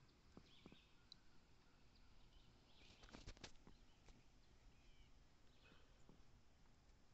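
Near silence with faint bird chirps here and there, and a quick cluster of soft clicks about three seconds in.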